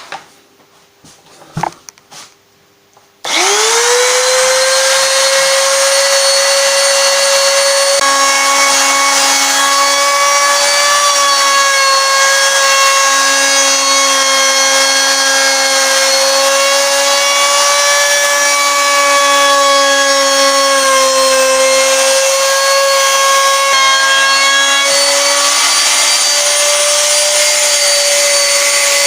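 Wood router spinning up after a few light clicks about three seconds in, then running steadily with a high whine while a larger round-over bit routes the back edge of a guitar body. A lower hum comes and goes several times, and the motor starts winding down at the very end.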